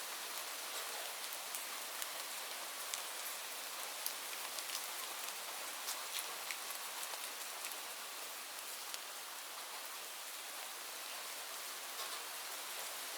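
Steady rain falling, a continuous hiss with scattered sharper ticks of individual drops striking hard surfaces.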